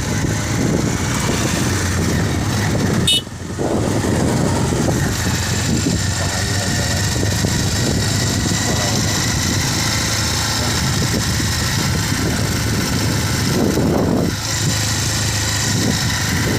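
A motor vehicle's engine running steadily on the move, with road and wind noise. The sound drops out sharply for a moment about three seconds in.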